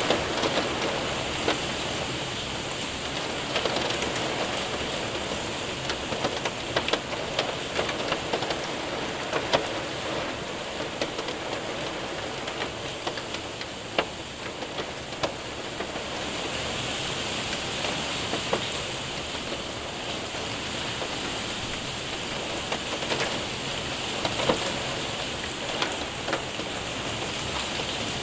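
Steady rain with hailstones pelting a window and roof: a constant hiss of rain broken by many sharp ticks of hail, a few louder hits standing out.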